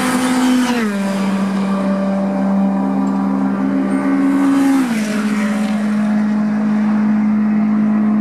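Touring race car engine running hard at a steady pitch, which drops abruptly about a second in and again near five seconds, like upshifts.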